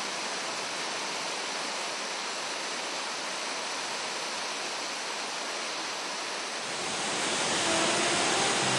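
Steady rushing water. Music fades in near the end.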